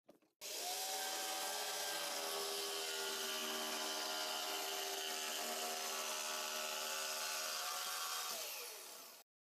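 Electric power saw cutting wood sheet material: the motor starts suddenly, runs with a steady whine for about eight seconds, then slows with falling pitch and stops near the end.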